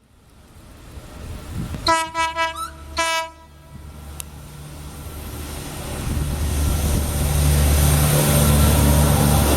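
A freight locomotive's horn sounds in several quick short notes about two seconds in and once more a second later, then the locomotives and loaded wagons of a freight train draw closer with a low rumble that builds steadily, under the hiss of heavy rain.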